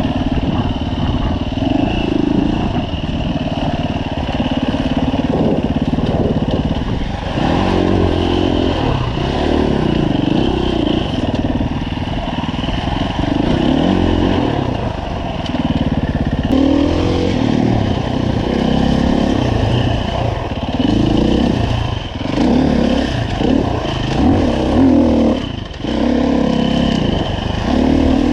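2015 Husqvarna FE 350 dirt bike's single-cylinder four-stroke engine under constant throttle changes, its pitch rising and falling every second or two as it revs up and drops back. Near the end it dips briefly before picking up again.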